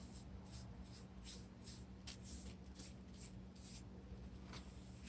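A wet 2-inch brush stroked sideways over freshly applied patching material, making faint, soft swishes about three a second that thin out near the end.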